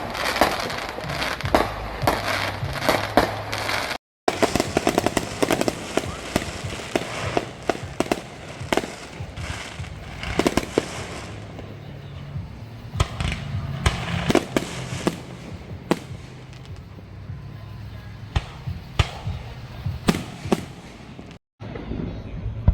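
Fireworks going off: many sharp bangs at irregular intervals over continuous crackling. The sound cuts out completely for a moment twice, about four seconds in and near the end.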